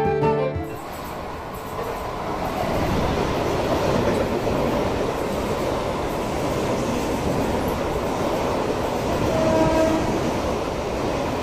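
Mumbai Central Railway fast local electric train running through a station platform at full speed without stopping: a steady rushing rumble of the coaches passing close by, swelling about two seconds in. A short tone sounds near the end.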